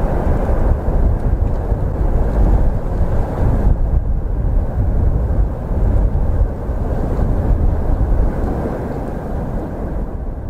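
Freight train rolling past on the rails: a steady, heavy rumble of the wagons, easing a little near the end.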